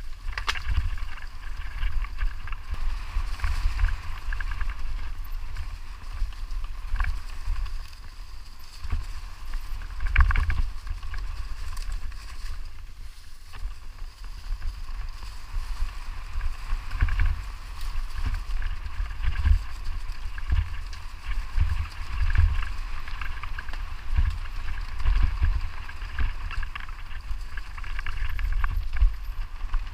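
Wind buffeting the microphone: a loud, uneven low rumble that keeps swelling and falling, over a steady hiss.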